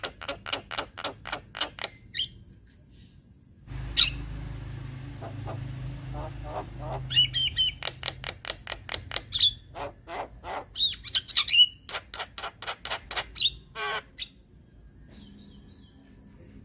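Javan myna (jalak kebo) chattering: fast runs of short clicking notes mixed with brief whistles and a harsh rasping call near the end. A sharp click about four seconds in is followed by a few seconds of low rumbling noise.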